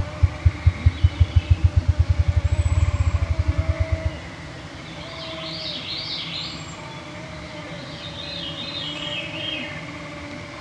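Ruffed grouse drumming: deep, hollow thumps that speed up into a fast roll and stop about four seconds in. Songbirds then sing, including a descending series of notes.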